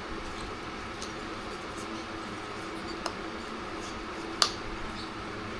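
Faint small clicks and taps from hands handling a chainsaw cylinder while oiling its bore, over a steady background hum, with one sharp click about four and a half seconds in.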